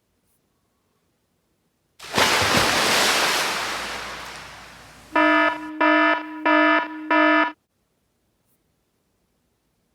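Edited-in cartoon sound effects: a sudden loud noisy crash-like burst that fades away over about three seconds, followed by four short buzzy electronic beeps in quick succession.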